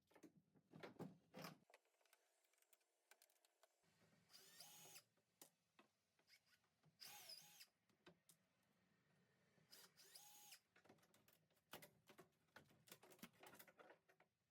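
Power drill running in three short spurts of about a second each, its whine rising and falling, among scattered clicks and knocks.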